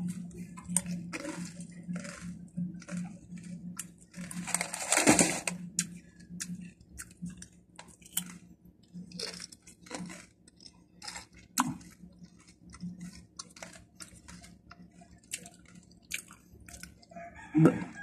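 A person chewing crunchy puffed snack chips close to the microphone: a run of short, sharp crunches throughout, with one louder burst of noise about five seconds in. A faint steady low hum lies underneath.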